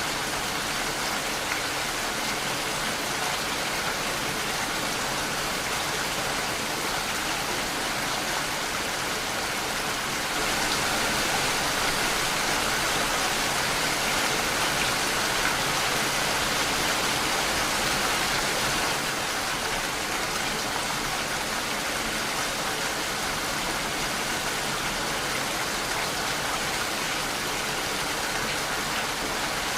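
Steady rain falling, growing a little louder for several seconds in the middle.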